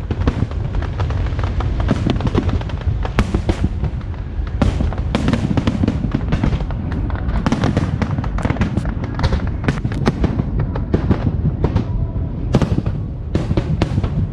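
Fireworks display: a rapid, unbroken run of bursts and crackles, many a second, over a steady low rumble.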